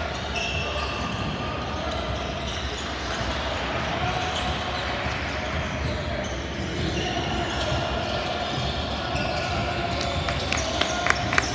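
Gym sound during a basketball game: a steady din of voices echoing in a large hall, with a quick run of sharp sneaker squeaks and ball bounces on the court near the end.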